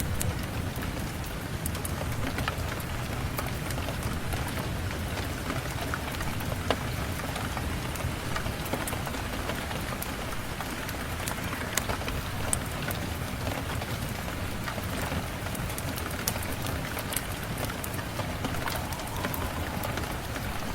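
Steady rain falling, with scattered sharp crackles and pops from a fireplace over it.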